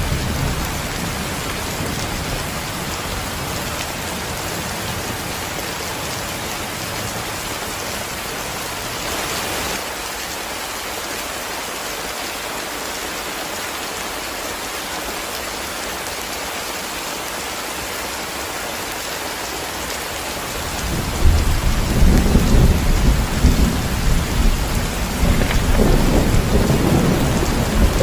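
Steady heavy rain falling on leaves and ground, with a loud rumble of thunder building up about three quarters of the way through and rolling on to the end.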